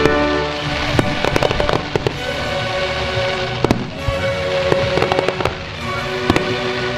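Fireworks going off, sharp bangs and crackles every second or so, over music with held notes.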